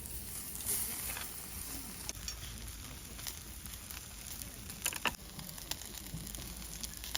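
Fire sizzling and crackling, with a few sharp pops, the loudest a pair about five seconds in.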